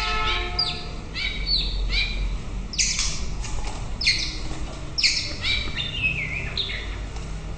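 White-rumped shama singing a string of short, sharply sweeping whistled notes and phrases, a burst every second or so, as a male sings to a hen. A held horn-like tone fades out in the first second, over a steady low hum.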